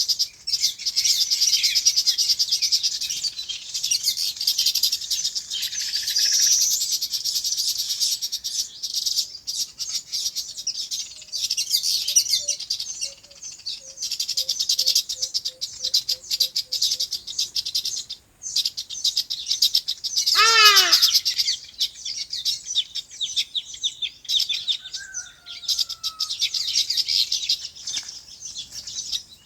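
Many small birds chirping at once in a dense, high-pitched, unbroken chorus. A run of about a dozen short, evenly spaced low notes comes in the middle, and about two-thirds of the way through one loud call slides steeply down in pitch.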